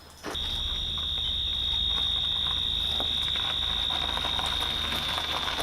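A continuous high-pitched electronic alarm tone holding one steady pitch without pulsing, starting abruptly just after the start, over a low rumbling background with scattered clicks.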